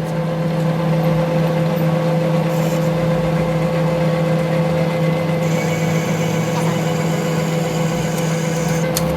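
A workshop machine running with a loud, steady hum that sets in at the start and holds an even pitch, with a faint high whine joining about halfway through.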